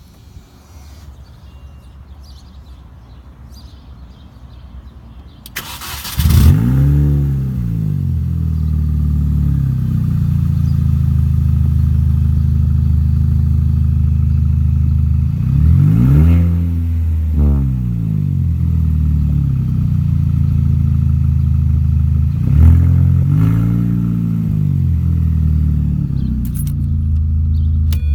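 Straight-piped 2004 Mini Cooper S R53 with its supercharged 1.6-litre four-cylinder engine. After about six seconds of low background, the starter cranks briefly and the engine catches with a loud flare, then settles into a loud, steady idle. Two short revs come about sixteen and twenty-three seconds in.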